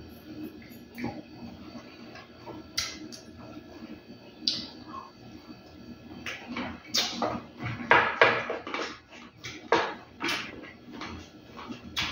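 Close-up mouth sounds of a man eating chicken with his hands: chewing and lip-smacking, with a few sharp clicks in the first half. From about halfway through the smacking grows dense and louder, several strokes a second.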